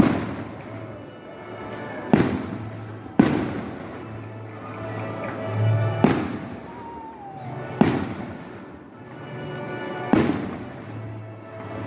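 Fireworks going off: a series of sharp bangs every one to three seconds, each trailing off.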